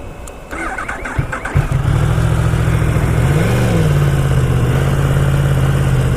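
Yamaha R1 inline-four motorcycle engine starting up about a second and a half in, then idling steadily, with one short blip of the throttle a couple of seconds later.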